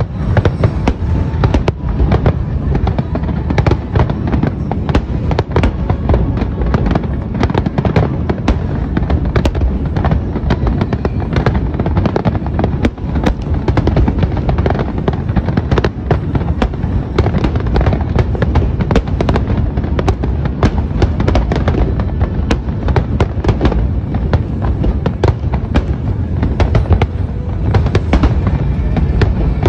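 Fireworks barrage: aerial shells and star mines bursting in rapid succession, a dense, unbroken run of booms and sharp crackling reports, several a second.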